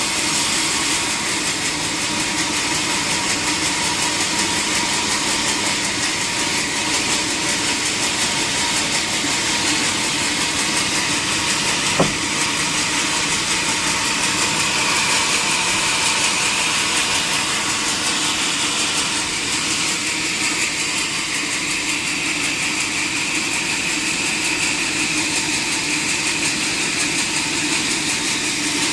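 Sawmill machinery running steadily, with a single sharp click about twelve seconds in.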